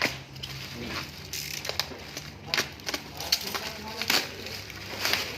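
Parcel packaging crinkling and rustling as it is opened by hand, in irregular sharp crackles.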